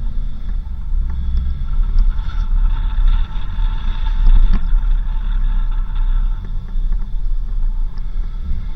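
4x4 vehicle driving on a dirt road: a steady low rumble of engine and tyres, with scattered knocks and rattles.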